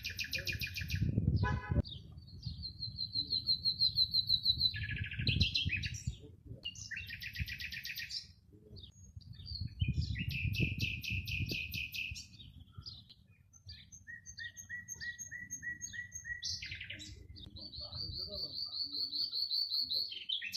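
Wild birds singing in springtime: a string of varied song phrases, fast trills and chirps alternating with high, thin drawn-out notes, one after another with short gaps. A low rumble of wind or microphone handling runs underneath.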